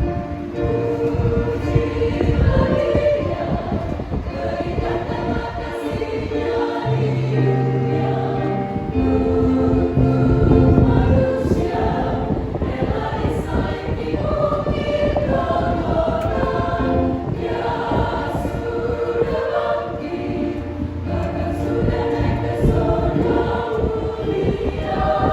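Church choir singing a hymn in parts, many voices together with long held notes.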